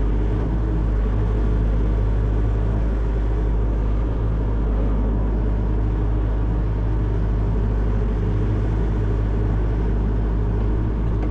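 Hitachi 14-tonne excavator's diesel engine running steadily with a low, even drone.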